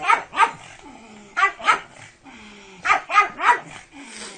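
A dog barking in short sharp barks: a pair, a pause, another pair, then a quick run of three.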